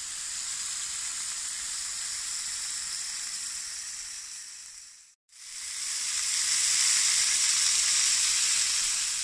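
Burger patties sizzling in a hot ridged cast-iron griddle pan: a steady frying hiss that fades out a little past halfway, then fades back in louder for the rest.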